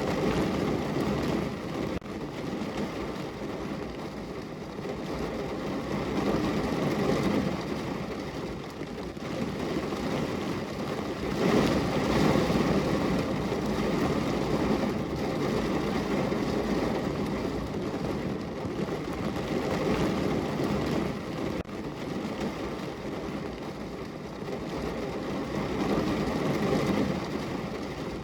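Heavy rain falling on a car's roof and body, heard from inside the car: a dense, steady patter that swells and eases several times.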